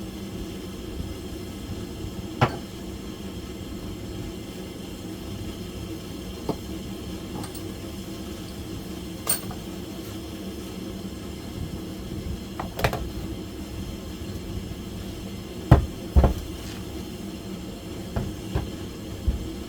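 Scattered metallic clinks and knocks of tools and engine parts being handled, irregular and unhurried, over a steady low background hum; two heavier knocks close together near the end are the loudest.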